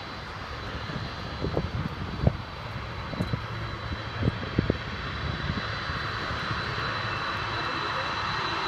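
Air Force One's Boeing 747 jet engines running, a steady roar with a thin high whine that grows slowly louder. A few brief low thumps in the first few seconds.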